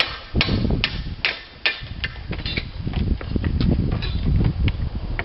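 A hammer striking roof slate in a run of sharp strikes, about two a second, breaking out the pieces of a broken slate. A steady low rumble runs underneath.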